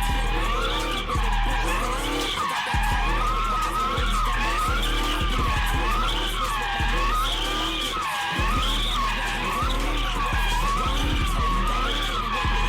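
A car's tires screeching without a break as it slides, the squeal wavering up and down in pitch about once a second, over a steady deep drone.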